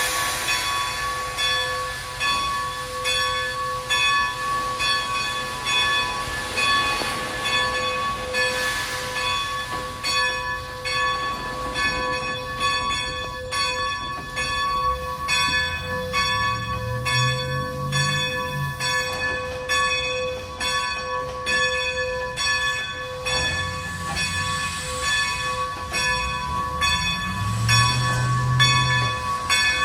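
Steam locomotive's cross-compound air compressor working on cold steam: a rapid run of clicks over steady, bell-like metallic ringing tones. A low rumble comes in twice, midway and near the end.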